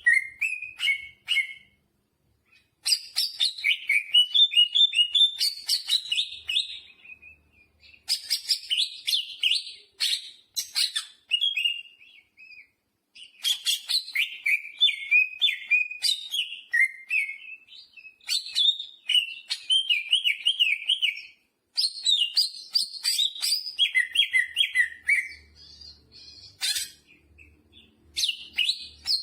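Green leafbird (cucak hijau) in full song: runs of fast, varied chirps, trills and warbles, each a few seconds long with short pauses between them, laced with mimicked jamtrok phrases.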